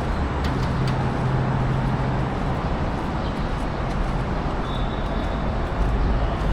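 Steady outdoor background noise with a low rumble, of the kind heard near road traffic.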